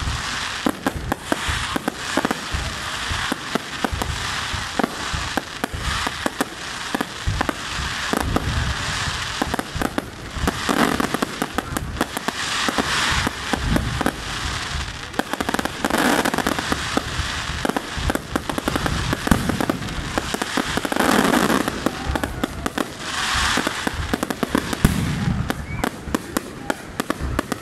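Fireworks display: a rapid, continuous run of bangs and pops from rising shells and aerial bursts. Several swells of hissing crackle come in the second half.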